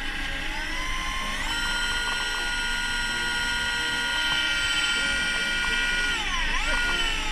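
Small electric motor whining, typical of an electric fishing reel winding line in: the pitch steps up about a second and a half in, runs steady, then sags briefly near the end, as if under a sudden load, and comes back up.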